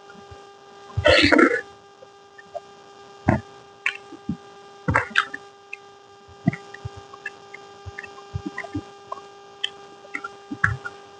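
Close-miked eating sounds: a loud, short mouth noise about a second in, then scattered small clicks and smacks of chewing and eating, over a steady electrical hum.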